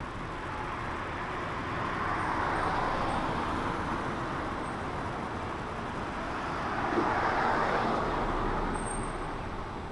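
Street traffic: cars passing one after another with a steady tyre and engine noise, swelling twice as vehicles go by, about two and seven seconds in.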